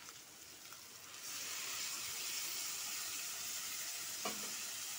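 Onions and green chillies sizzling in hot oil in an aluminium pot. About a second in, blended tomato goes in and the sizzle jumps to a louder, steady hiss.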